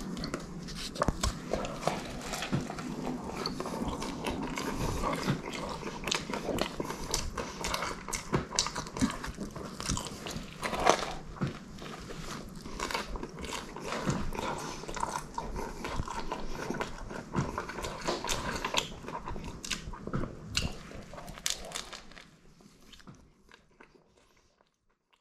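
Someone biting into and chewing a toasted focaccia sandwich with a crisp crust, in a dense run of irregular crunches, clicks and mouth sounds. It fades out near the end.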